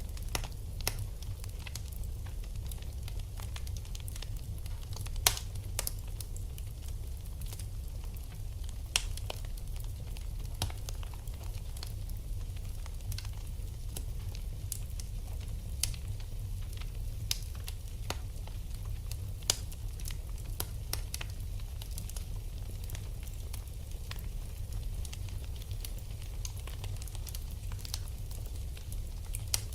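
Wood fire burning in a fireplace: a steady low rumble with a constant sizzle and scattered sharp crackles and pops, the loudest pop about five seconds in.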